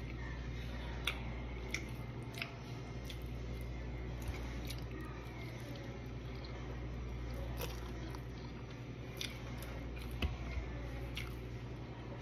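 Close-up chewing of a chocolate chip pancake, with wet mouth clicks and smacks at irregular intervals over a steady low hum.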